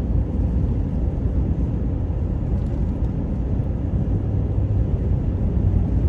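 Steady road and engine rumble heard from inside a moving car's cabin, a low, even drone with no distinct events.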